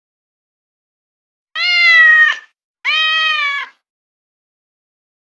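Domestic cat meowing: two meows, each just under a second long, the second following right after the first, starting about a second and a half in.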